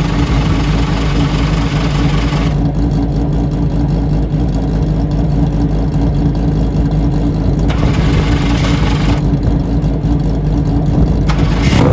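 Radical race car engine, just started off a plug-in battery pack, idling steadily at an even pitch. Twice a stretch of extra hiss joins it, near the start and about two-thirds of the way through.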